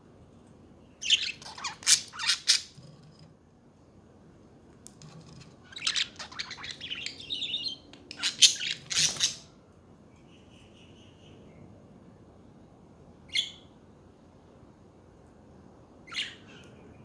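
Budgerigars chirping and chattering in two bursts of rapid, high calls, then two single short chirps near the end.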